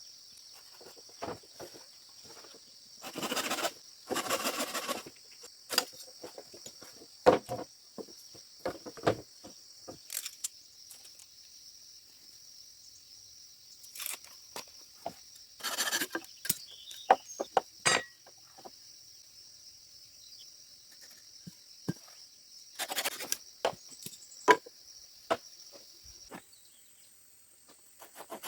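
A steady high insect chorus, which changes pitch near the end, under scattered sharp knocks and clicks and a few short rasping bursts, like hand work on wood or bamboo.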